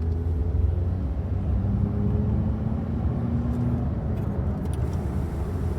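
Steady low rumble of a motor vehicle running, with faint steady hum tones above it.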